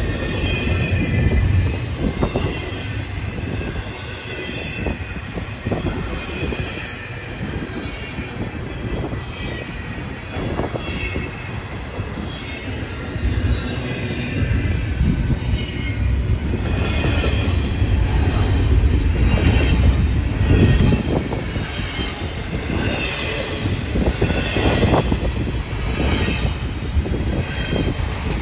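Slow CN intermodal freight train rolling past: a steady low rumble of the cars with repeated wheel clacks over rail joints and high-pitched wheel squeal, the squeal and clacking growing stronger in the second half.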